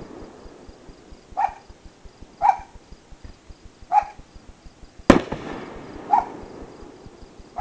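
A single firework report: one sharp crack about five seconds in, followed by a long echo rolling back from the hollow. Between the bangs a dog barks four times.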